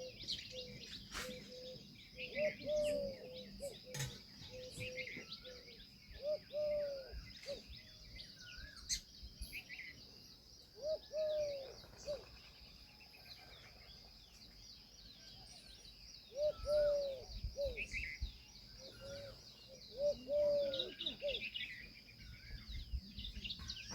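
Birds calling: short, low, arched notes in groups of two or three repeat every few seconds, over higher chirping and a steady high-pitched tone.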